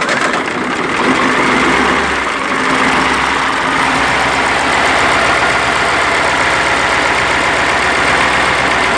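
KamAZ truck's diesel engine running steadily just after starting.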